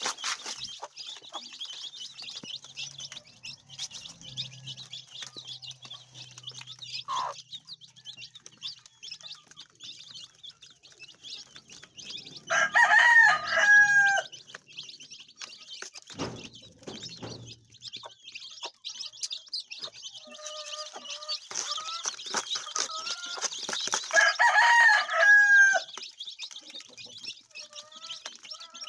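Rooster crowing twice, about twelve seconds apart, each crow loud and lasting a second or two. Between the crows there is a steady high-pitched chatter and a few faint clucks.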